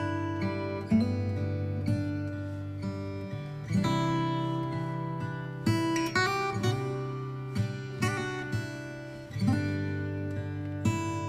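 Background music: acoustic guitar playing plucked chords at a gentle pace.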